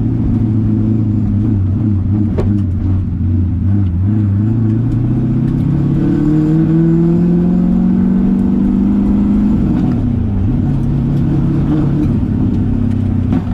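LS V8 engine in a Nissan 350Z running steadily, then its revs climb smoothly for about four seconds before dropping back near the ten-second mark. The engine is still not warmed up.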